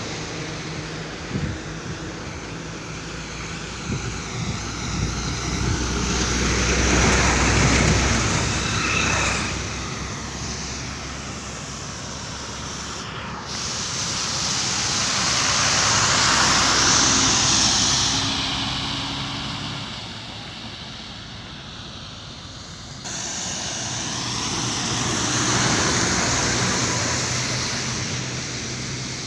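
Motor vehicles passing on a road: engine and tyre noise swells and fades three times, with abrupt changes in the sound about 13 and 23 seconds in.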